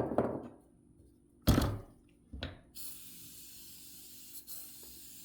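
Three knocks from tools or parts being handled, roughly a second apart, then a faint steady hiss that starts abruptly near the middle and keeps going.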